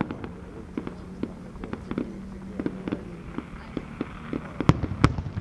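Fireworks going off: scattered sharp pops throughout, with two louder bangs close together near the end.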